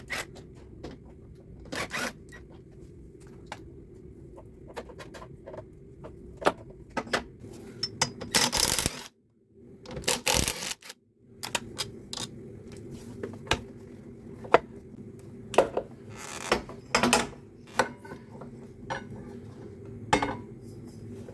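Metal tools clinking and knocking against a motorcycle's front brake calipers and forks as the caliper bolts are undone and the calipers taken off, with a steady low hum behind.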